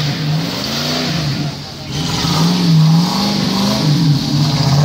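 SUV engine revving hard off-road, the revs rising and falling several times as the driver works the throttle, easing off briefly about two seconds in.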